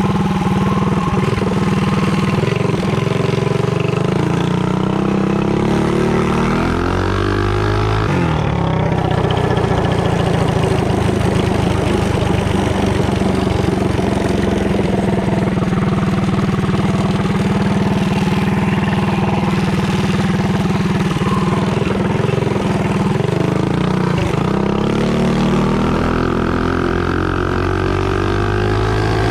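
Mini bike engine driving through a torque converter with a red spring in the driven pulley, running hard on an acceleration run. Its pitch climbs about six seconds in, holds high for a long stretch, then dips and climbs again near the end.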